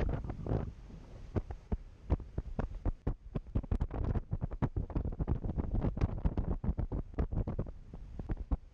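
Strong gusty wind buffeting the microphone, heard as a rapid, irregular run of low thumps and pops.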